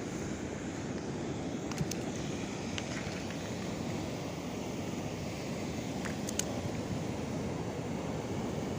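Steady wash of sea surf on the shore, with wind on the microphone and a few faint clicks.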